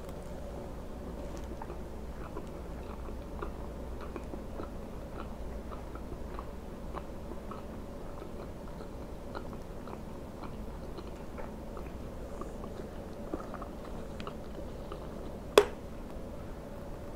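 Close-miked chewing of a mouthful of food, with many small wet mouth clicks and smacks over a steady low hum. One sharp click near the end, as a plastic water bottle is handled.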